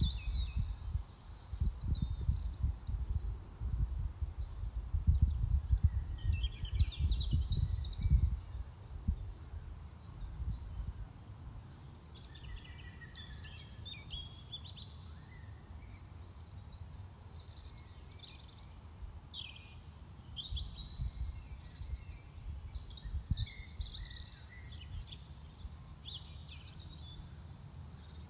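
Small birds singing and chirping, with short trills and twitters scattered throughout. Under them is a low, gusty rumble that is strongest in the first nine seconds, then dies down.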